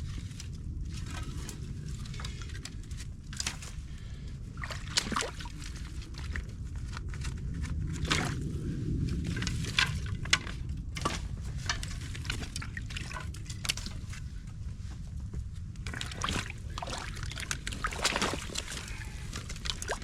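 Water sloshing and splashing as a beaver dam of sticks, mud and rocks is pulled apart by hand, with many short sharp clicks and snaps as material is torn loose over a low steady rush of water, a little louder about halfway through.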